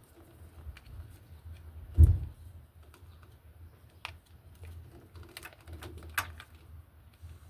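Light clicks and taps from parts and tools being handled during a washing machine repair, with one low thump about two seconds in.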